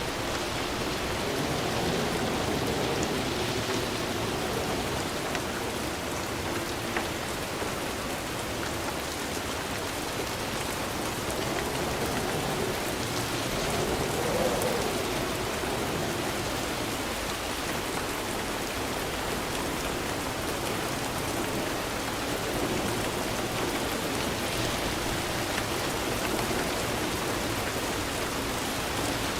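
Steady rain falling: an even hiss with scattered drop ticks, swelling slightly about halfway through.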